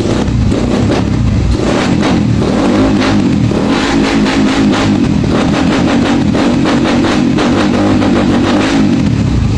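Motorcycle engine with an aftermarket power pipe exhaust being revved hard. It climbs over the first two seconds, is held at high revs with a wavering note, then falls back toward idle near the end. The exhaust has no screen inside, which gives it its loud, open sound.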